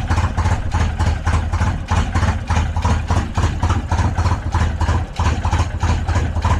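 Polaris RZR side-by-side's engine idling steadily with a fast, even pulse. It is a freshly rebuilt motor that had seized with a rod welded to the crank, now running on Lucas oil with its oil pressure back.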